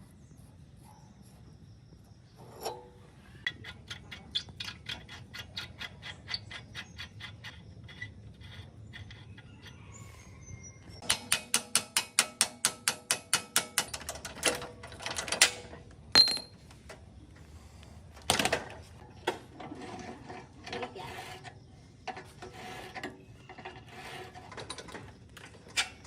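Metallic clicking in steady runs, about four clicks a second, then a louder, faster run in the middle, followed by scattered clinks and clanks of metal tools and parts during work on a small motorbike engine.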